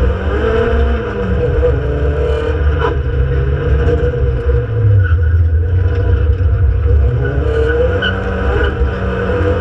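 Renault Clio Sport 182's 2.0-litre four-cylinder engine under hard driving, heard from inside the cabin, its revs rising and falling.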